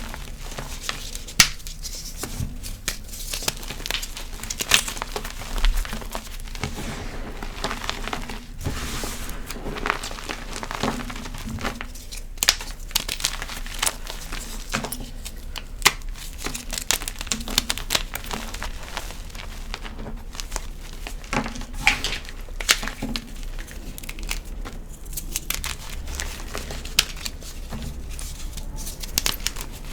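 Blocks of gym chalk crushed and crumbled by hand, a continuous, uneven run of extra crispy crunching and crackling with many sharp snaps.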